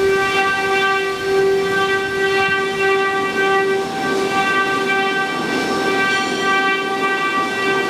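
Multi-head CNC wood router's spindles running with a steady high-pitched whine and its overtones, over machining noise that grows rougher about halfway through.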